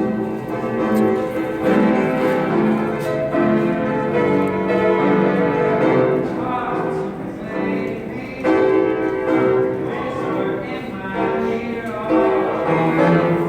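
A man singing with his own piano accompaniment, a sustained melodic vocal line over piano chords.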